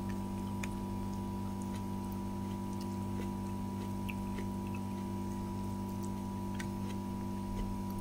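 A steady electrical hum at several fixed pitches, with short sharp mouth clicks from chewing food scattered irregularly through it.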